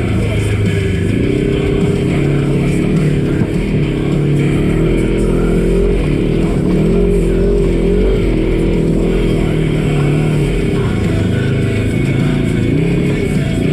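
Polaris RZR side-by-side engine running under load, its revs rising and falling over and over as it is driven up a rough trail. Music plays underneath.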